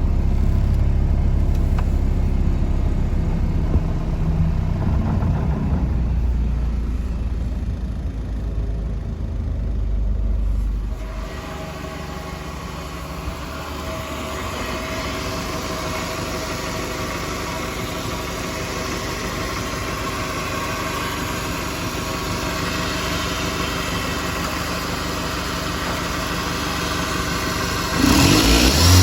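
Toyota 3S-FE 2.0-litre inline-four running warm at a steady idle. The sound changes about eleven seconds in, from a deep rumble to a steadier, higher hum, and the engine revs up near the end.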